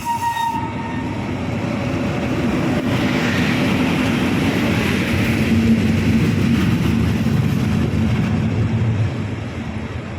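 Train passing, the rumble of its wheels on the rails building to a peak about six seconds in and easing off near the end.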